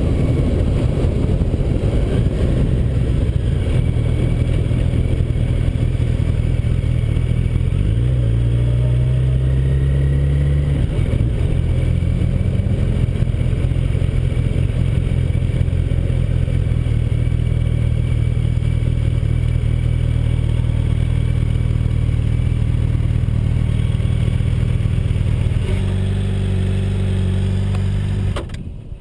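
Yamaha FZ1's inline-four motorcycle engine running at low speed, its pitch rising and then stepping down about ten seconds in. Near the end the note changes, then cuts off suddenly as the engine is switched off.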